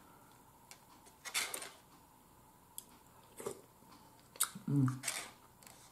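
Close-miked chewing and mouth sounds of someone eating a soft wonton, in short separate bursts, with a brief hummed "mmm" of approval near the end.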